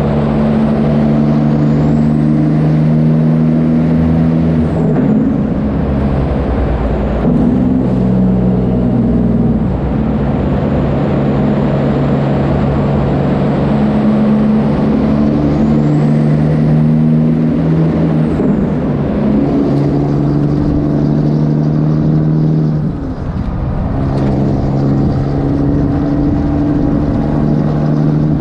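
Kenworth W900 semi truck's diesel engine running loud through straight pipes, its note dropping and climbing again several times as the engine speed changes.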